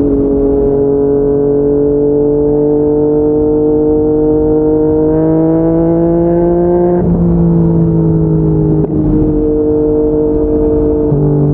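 Yamaha MT-09's three-cylinder engine, breathing through an aftermarket slip-on exhaust, pulling under way with its pitch slowly rising as the bike gathers speed. About seven seconds in the revs drop back, and near nine seconds there is a brief dip before the engine settles into a steady run.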